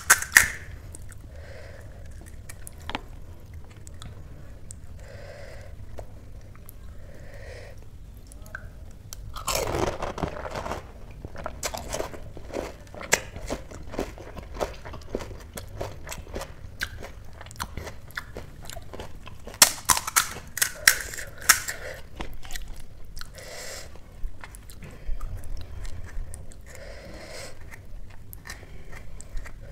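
Close-up eating of crisp pani puri shells: crunching and chewing, with a louder spell of crunching about ten seconds in and a quick run of sharp cracks around twenty seconds in.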